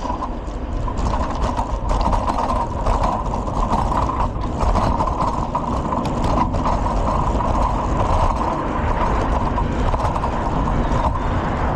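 Bicycle riding along a city street: steady tyre and road rumble with frequent clicks and rattles from the bike.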